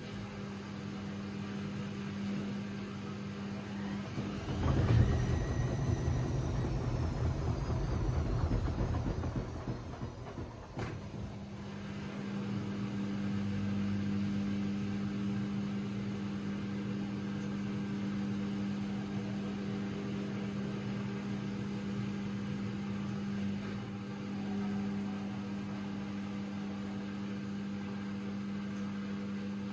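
AEG Lavamat 6610 washing machine running mid-cycle with a steady hum. From about four seconds in there is a louder, rumbling stretch with a gliding whine, which settles back to the steady hum at about eleven seconds.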